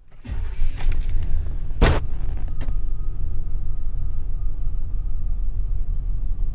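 1987 Oldsmobile Cutlass Supreme's carbureted engine cranked by the starter and catching about two seconds in, then settling into a steady idle.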